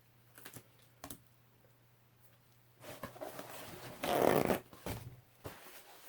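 Two light clicks, then a few seconds of rustling handling noise that is loudest about four seconds in.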